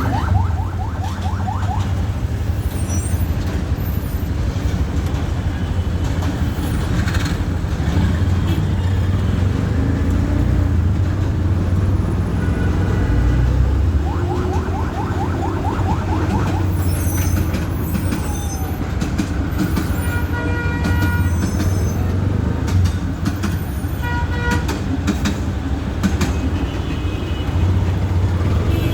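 Train running with a steady low rumble, with brief high-pitched tones and rattles coming and going over it.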